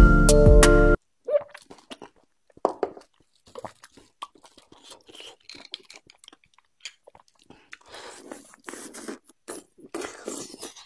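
Piano-like background music for about the first second, cut off abruptly. Then close-miked eating of beef bone marrow: wet chewing, sucking and lip smacks in short, irregular clicks and smacks.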